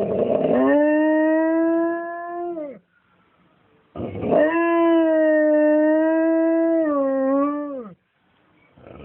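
Retriever howling in imitation of an ambulance siren: two long, level howls, each opening with a rough, breathy start and sliding down in pitch as it ends.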